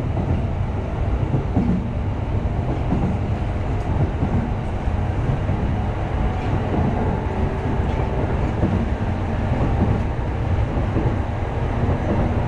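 Steady rumble of an electric commuter train in motion, heard from inside the carriage: wheels running along the rails.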